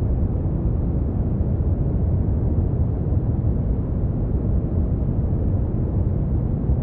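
Steady synthetic brown noise: a deep, even rumble-like hiss, strongest in the bass and fading toward the treble, with no changes or events.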